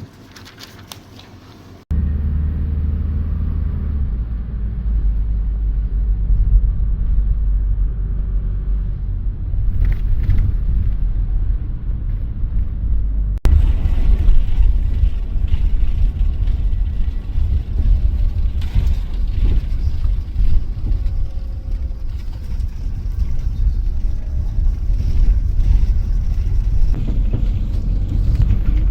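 Shuttle bus driving: a steady low engine and road rumble heard from inside the bus. It starts abruptly about two seconds in, with a brief break about 13 seconds in.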